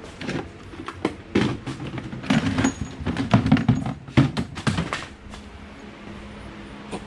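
Irregular knocks, clunks and rattles of equipment being handled, thickest in the middle and dying away after about five seconds, over a steady low hum.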